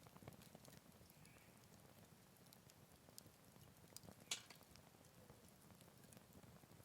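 Wood campfire crackling quietly, with scattered small pops and one sharper crack about four seconds in.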